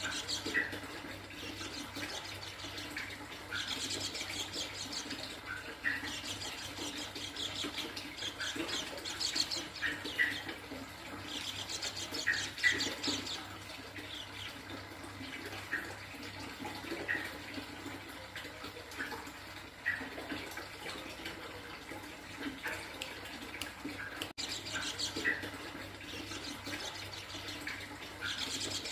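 Yellow-breasted white-eye (pleci dada kuning) singing in repeated bursts of rapid, high twittering trills, with short single chirps between the bursts.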